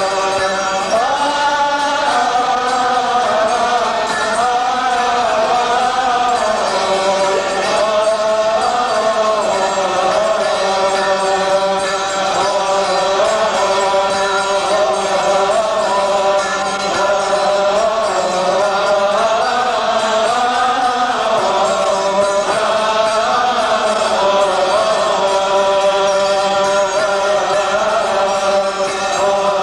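Coptic liturgical chant: a long, drawn-out melisma with no distinct words, its melody wavering slowly up and down over a steady held note.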